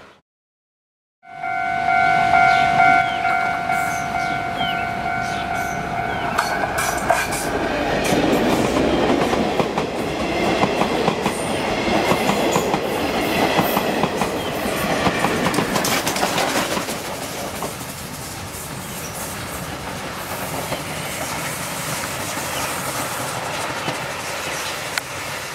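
A long steady train horn note for about six seconds. Then a train of passenger coaches passes close by, its wheels clattering over the rail joints, and the noise eases off in the last several seconds.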